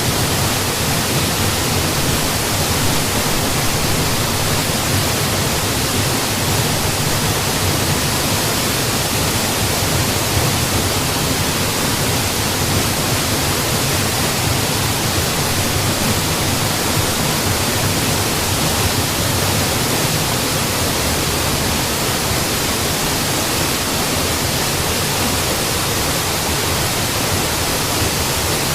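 Mountain waterfall: a steady, unbroken rush of falling water, with a strong low rumble beneath a hiss.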